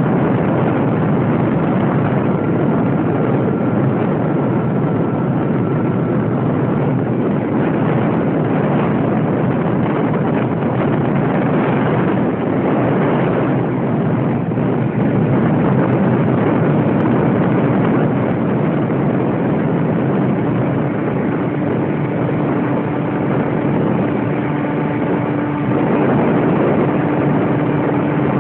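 Radio-control model airplane in flight: a steady rushing of propeller and airflow noise, with a faint steady whine coming and going.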